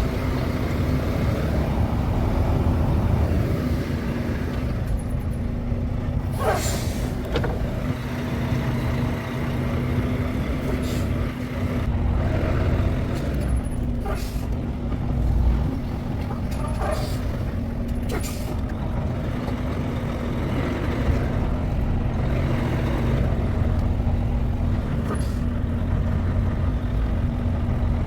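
Semi truck's diesel engine running steadily at low speed while being manoeuvred, with short air-brake hisses several times.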